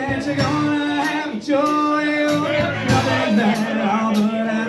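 Acoustic band playing with a male voice singing long held notes without clear words, over a light, steady percussion beat.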